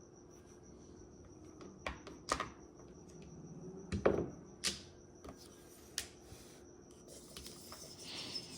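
Mahjong tiles clacking as they are set down and rearranged: about five sharp clicks spaced irregularly, the loudest a little after four seconds in, then a soft scraping of tiles sliding near the end. A faint steady high whine runs underneath.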